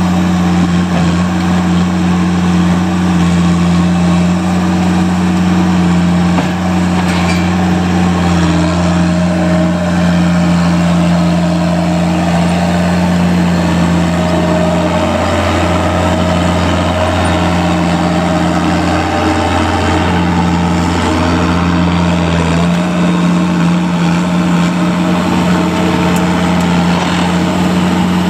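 A large vehicle engine idling steadily with a low, even hum; the lowest part of the hum drops away about three quarters of the way through.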